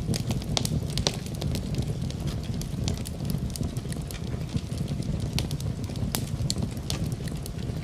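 Wood fire in a fireplace crackling, with frequent sharp, irregular pops over a steady low rumble of burning.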